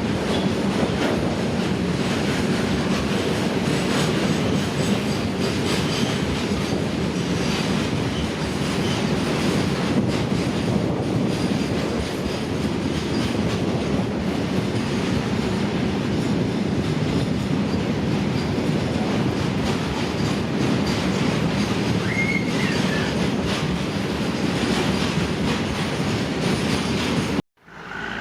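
A train's wagons rolling past on the rails, a steady rumble and clatter of wheels over the track, with a brief wheel squeal about 22 seconds in. The sound cuts off abruptly near the end.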